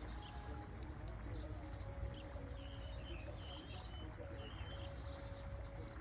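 Small birds chirping in a string of short high calls over a steady low rumble.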